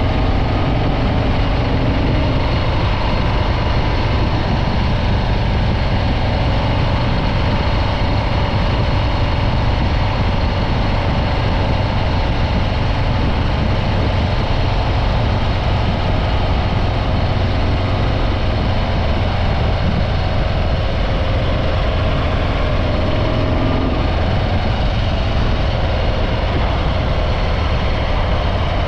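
Stock Harley-Davidson Breakout 114's Milwaukee-Eight V-twin engine running steadily through its stock exhaust, with no big revs.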